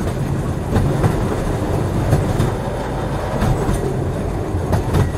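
Train running steadily on rails: a continuous low rumble with scattered sharp clicks of the wheels over the track.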